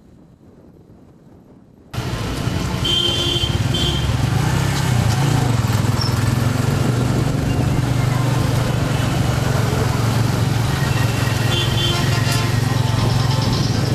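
Busy road traffic starts abruptly about two seconds in, with a steady drone of motorbike and vehicle engines. Short horn toots come about three seconds in and again near the end.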